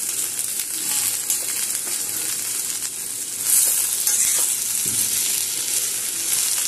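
Okra, potato and tomato sizzling in hot oil in a kadhai while a steel spoon stirs and scrapes through them, with a louder burst of sizzling about halfway through.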